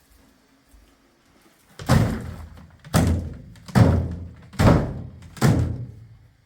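Five heavy thuds in a row, about one a second, each dying away briefly after the blow.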